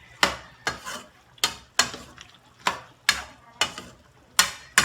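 A cooking utensil knocking against a pan as chicken is stirred in it. It makes about ten sharp, irregular strikes, two or three a second.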